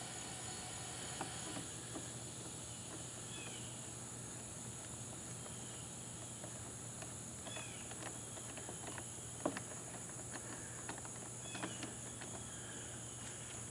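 Steady high-pitched insect trilling, with a low steady hum, scattered faint chirps and a few small clicks, one a little louder about nine and a half seconds in.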